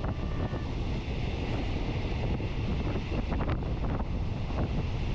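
Wind buffeting the microphone over the steady low rumble of a moving train, with a few short clicks.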